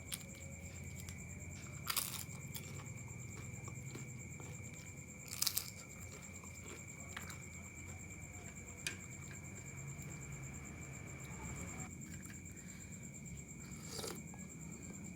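Eating chicken noodles: quiet chewing with a few sharp crunches or clicks spread through, over a steady low hum and a faint high whine.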